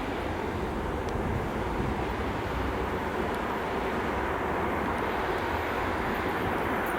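ChS2K DC electric locomotive hauling a passenger train, a steady rumbling rail noise that grows louder near the end as the train draws closer.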